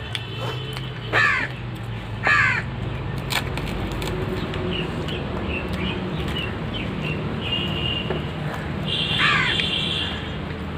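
Crow cawing three times: twice early, a second apart, and once more near the end, with faint high chirping in between and a steady low hum underneath.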